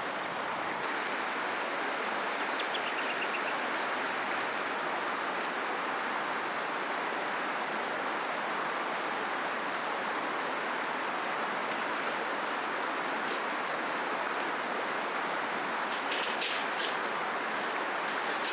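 River water flowing steadily, an even rushing. A quick run of sharp clicks near the end.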